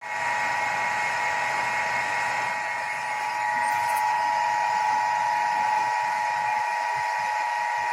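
Soviet-made 5.5 kW, 1450 rpm explosion-proof three-phase induction motor (type AIMM112M4U3) running steadily with an even, high-pitched whine.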